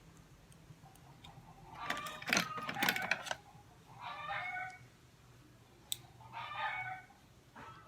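Chickens calling twice in the background, short calls about four and six and a half seconds in. Louder clicks and clatter of small tools and metal parts being handled come about two to three seconds in, with one more sharp click about six seconds in.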